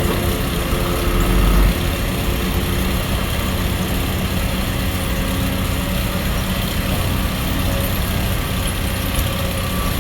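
Excavator's heavy diesel engine running steadily as it works. It swells louder and deeper briefly, around one to two seconds in.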